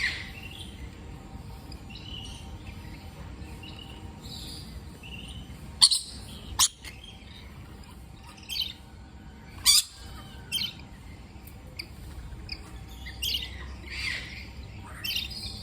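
Parrots calling: scattered short chirps and squawks, with a few sharp, loud calls about six seconds in and again near ten seconds.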